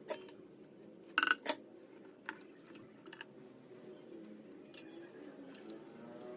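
Small metal tools and parts clinking and tapping on a workbench: a handful of sharp clicks, the loudest pair about a second in with a brief metallic ring, over a faint low hum.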